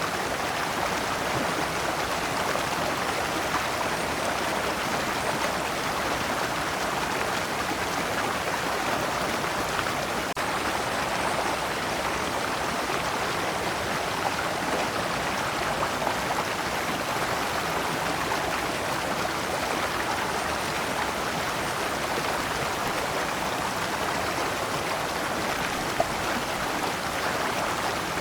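Shallow stream flowing steadily over large rocks, water splashing down small cascades.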